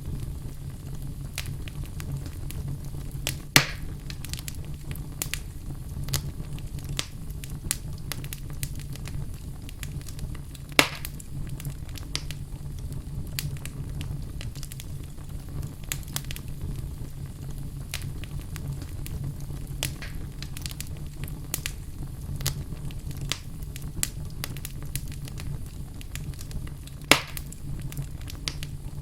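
Wood fire burning in a fireplace: a steady low rumble of flames with irregular crackling, and three louder pops spread through.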